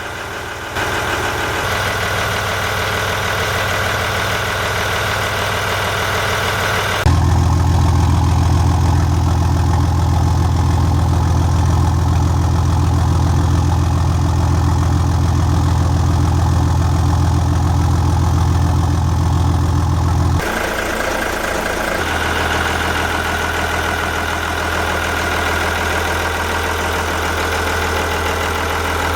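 Yamaha MD580KUH 260-horsepower inboard boat engine running steadily. About seven seconds in its low drone becomes much louder and heavier, then drops back about twenty seconds in.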